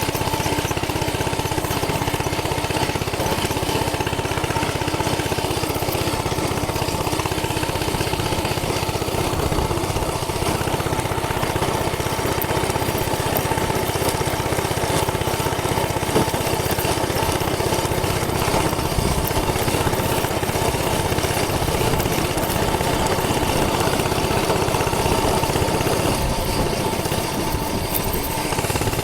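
Coleman CC100X minibike's 100cc four-stroke lawnmower-type engine running steadily under a rider, with one brief knock partway through.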